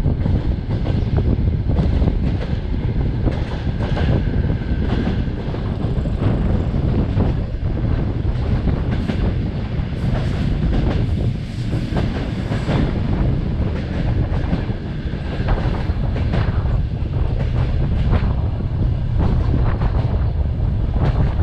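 Ukrainian Railways sleeper train running through open country, heard from an open carriage window: a steady low rumble with irregular clattering of wheels over rail joints.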